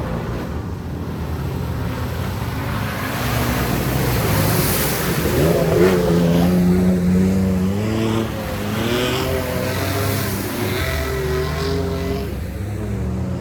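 Off-road vehicle engine revving under load, climbing in pitch about halfway through, swelling to its loudest, then wavering up and down and easing off near the end.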